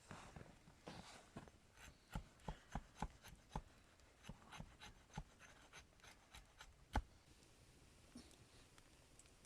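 A run of light, irregular clicks and knocks, a few a second, with one sharper knock about seven seconds in.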